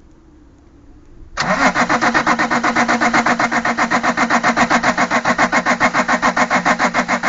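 Opel Omega 2.5 TDS's BMW-built 2.5-litre turbodiesel straight-six being cranked over by the starter motor on a cold start, beginning about a second and a half in. It turns over in a fast, even beat of about nine compression pulses a second over the starter's steady whine, without catching.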